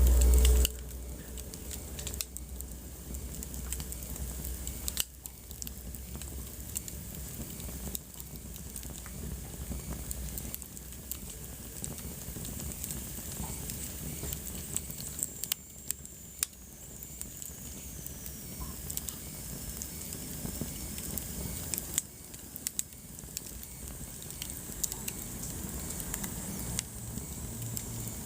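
Wood fire burning in a fireplace, crackling and popping irregularly over a steady soft hiss. A brief low rumble sounds at the very start.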